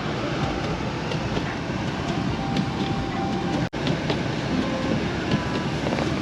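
A car driving: a steady rumble of engine, tyres and wind with scattered small ticks. The sound drops out for an instant a little past the middle.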